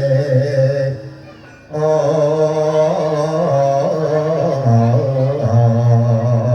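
A voice chanting a Javanese sung verse in long held, wavering melodic lines. It breaks off briefly about a second in, then resumes.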